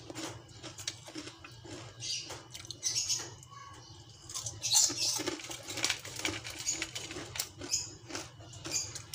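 Crispy fried danggit, dried rabbitfish, being bitten and chewed close to the microphone. It makes irregular crunches and crackles, several a second, with a few louder bites about five seconds in.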